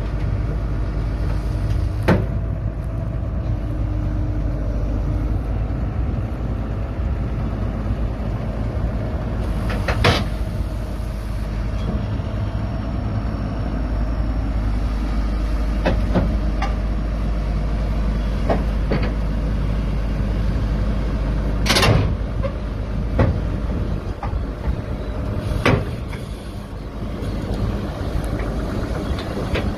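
Crawler excavator's diesel engine running steadily, with several sharp knocks spread through, the loudest about two-thirds of the way through.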